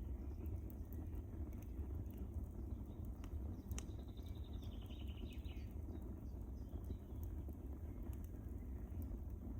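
Wood fire burning in a fireplace: a steady low rumble of flames with scattered sharp crackles and pops. About four seconds in, a brief high whistle falls in pitch in small steps.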